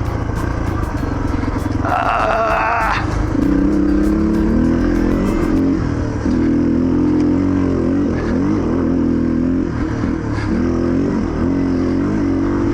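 Yamaha TTR230 dirt bike's single-cylinder four-stroke engine running under way on a trail, its revs rising and falling with the throttle.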